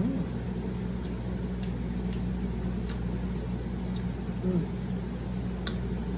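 A person chewing a tender short rib close to the microphone, with scattered wet mouth clicks and squishy chewing noises over a steady low hum.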